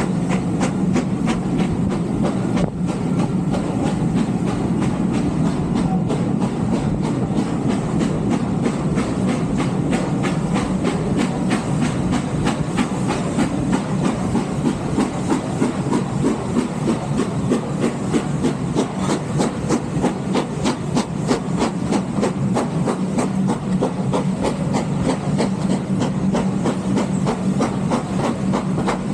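Steam-hauled train running along the line: a steady rumble with a fast, even, rhythmic clatter.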